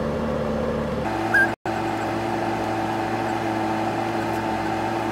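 Car engine idling steadily, heard from inside the cabin as a constant hum. About a second and a half in there is a short high beep, and then the sound cuts out for a moment.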